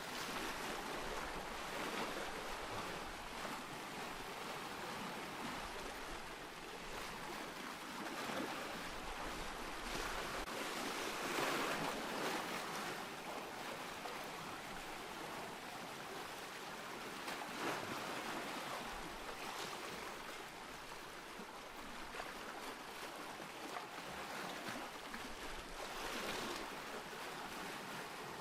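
Ocean surf: a steady wash of waves, swelling louder as sets break, most strongly about eleven seconds in and again near the end.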